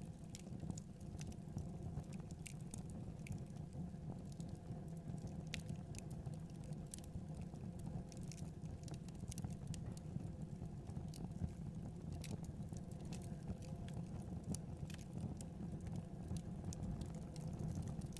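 Fireplace wood fire crackling, with irregular sharp pops and snaps over a steady low rumble of the flames.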